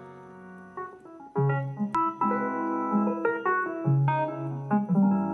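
Electric-piano-style keyboard playing sustained chords. A chord fades away, and about a second and a half in new chords and single notes begin, with a sharp click about two seconds in.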